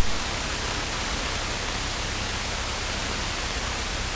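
Steady static hiss on the aircraft's radio and intercom audio, opening with a sharp click as a radio transmission ends.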